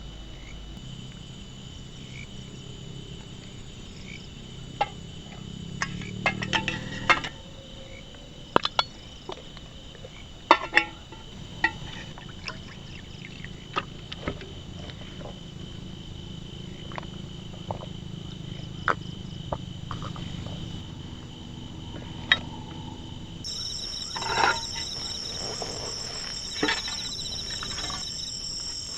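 Steady high chirring of insects such as crickets, with a second, stronger high chirring joining after about 23 seconds. Scattered sharp clicks and knocks of objects being handled sound over it and are the loudest sounds.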